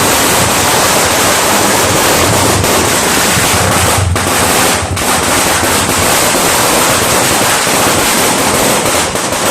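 Judas belt firecracker string going off in a dense, rapid crackle, the bangs so close together that they merge into one loud, steady rush of noise. The noise briefly dips about four and five seconds in.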